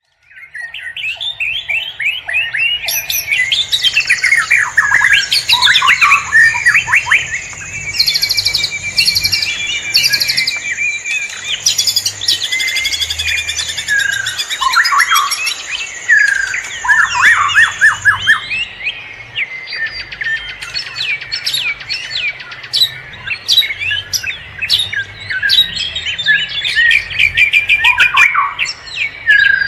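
Several wild forest birds calling and singing at once: overlapping chirps, whistled sweeps and rapid trills. A steady high-pitched tone runs under them from about three seconds in until past the middle.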